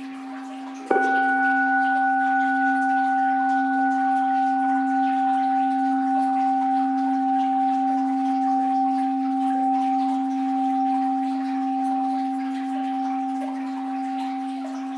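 An orin (Buddhist standing bowl bell) is struck once about a second in, while an earlier ring is still sounding. Its clear tone rings on with a gentle wavering and slowly fades.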